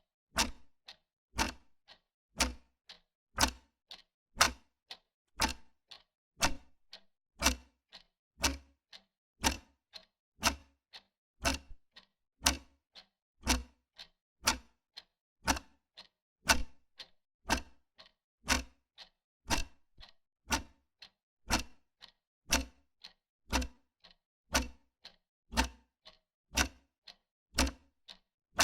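Wall clock ticking steadily, with louder and softer ticks alternating at about two a second.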